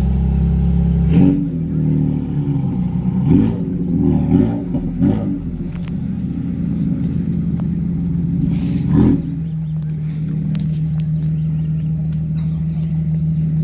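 A car engine idling steadily close by, with several short, louder moments in the first five seconds and one more about nine seconds in.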